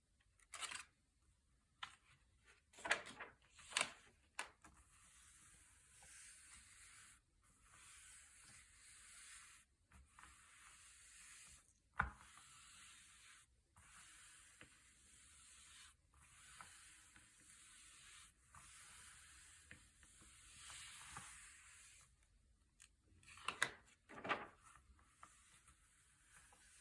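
Thick, glossy paper pages being turned, with quick swishing flips and crisp snaps of paper around three to four seconds in, once at about twelve seconds and twice near the end. Between the turns there is a soft, steady rustle of paper being rubbed or slid.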